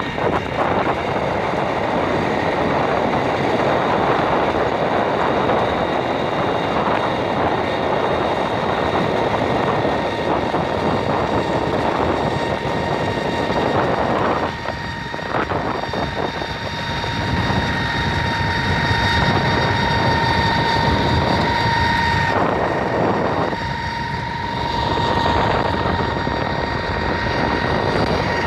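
Garbage truck running, a dense mechanical noise with a steady high whine over it that grows stronger in the second half, briefly dropping out a couple of times.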